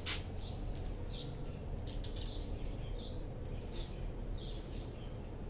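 A small bird chirping repeatedly: short, high chirps that fall in pitch, coming every half second or so over a steady low background rumble.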